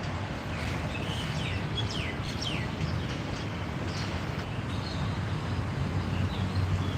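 Birds calling: a run of quick downward-sliding chirps in the first half, then a few short high notes, over a steady low rumble.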